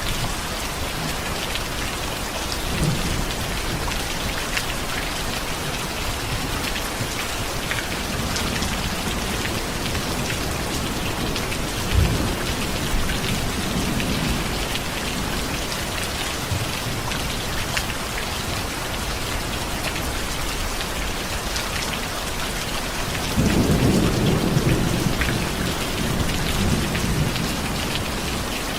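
Steady heavy rain, with rolls of distant thunder rumbling low under it; the loudest rumble swells about 23 seconds in and fades over a few seconds.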